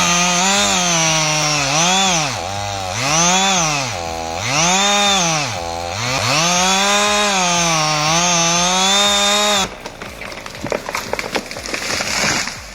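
Gas chainsaw running at high revs in a cut, its engine pitch sagging and recovering about four times as it works through the wood. It stops suddenly near the ten-second mark, and quieter irregular crackling follows.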